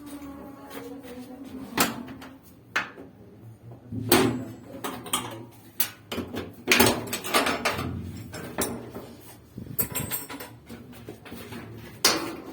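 A series of irregular knocks and clunks, like parts or tools being handled during work on a washing machine, with a short rattle about ten seconds in.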